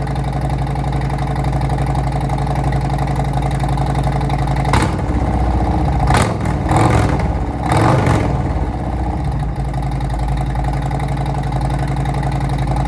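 Harley-Davidson Milwaukee-Eight V-twin idling through a Tab Performance 50 cal full exhaust with zombie baffle, blipped three or four times in quick succession near the middle before settling back to a steady idle.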